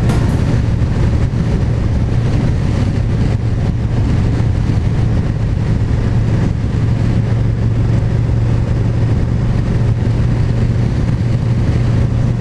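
KTM 1290 Super Duke GT V-twin motorcycle running at a steady cruise, its engine hum holding one low pitch throughout, with wind rushing over the helmet microphone.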